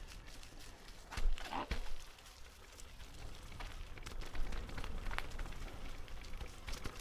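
Footsteps and rustling on an outdoor trail: irregular crunching steps with a louder scuffing rustle about a second in, over a low rumble of wind on the microphone.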